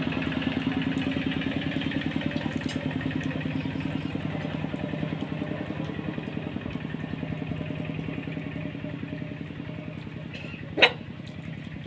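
A small engine running steadily with a fast, even pulse, slowly growing fainter. A single sharp knock sounds near the end.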